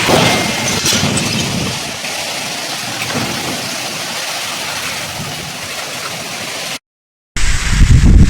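Heavy storm rain pouring down in a dense, steady hiss, with a sudden swell right at the start. About seven seconds in it cuts out for half a second, then comes back as a louder, lower rumble.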